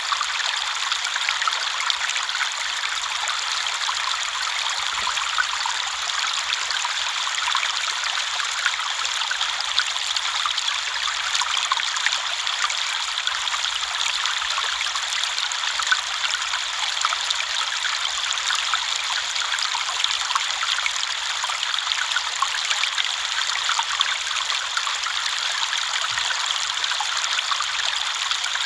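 River water flowing and babbling over stones: a steady rushing burble, full of small splashes and trickles, with no change in level.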